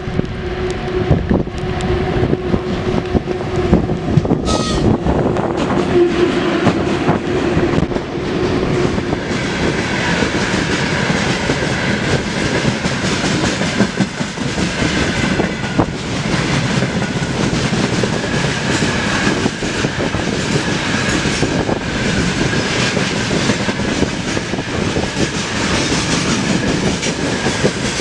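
Freight train hauled by a VL11M electric locomotive rolling past, wheels clacking over the rail joints. A steady hum in the first nine seconds or so gives way to the rumble of the wagons, with a steady high tone from about ten seconds in.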